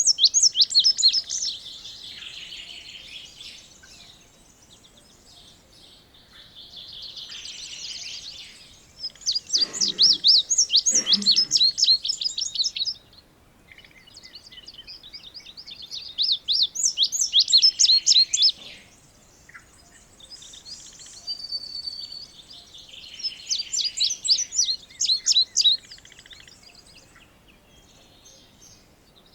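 Indigo bunting singing: four bouts of rapid, high-pitched chirped notes, each about two to three seconds long and several seconds apart, with fainter chirping between the songs.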